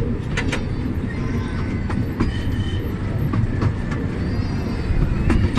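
Miniature park train running along its track, heard from on board: a steady low rumble of the wheels and carriages with scattered irregular clicks from the wheels on the rails.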